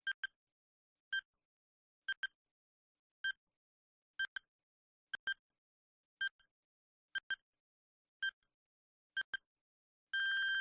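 Countdown timer sound effect: short electronic beeps about once a second, some in quick pairs like a tick-tock, then a long steady beep near the end signalling that time is up.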